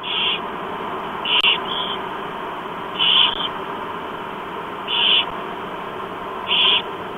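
Barn owl chicks calling for food in the nest box: short, rasping bursts about every one and a half to two seconds over a steady hiss. A single sharp click comes about a second and a half in.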